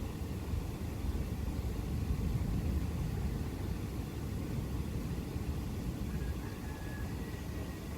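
Distant thunder rumbling low, swelling about two seconds in and slowly fading, over a faint hiss of rain.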